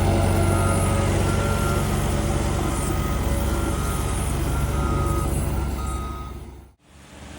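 Heavy construction equipment's engine running with a back-up alarm beeping repeatedly over it; the sound fades out sharply near the end.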